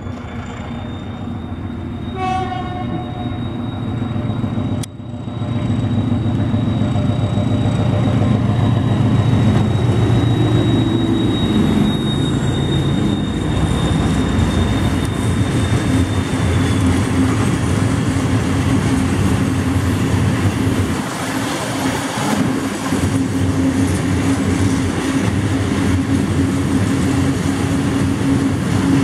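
LS800 diesel shunting locomotive passing close by, giving a short horn blast about two seconds in, its diesel engine loud as it goes past. From about halfway through, the steady rumble and clatter of the train's silo wagons rolling over the rails takes over.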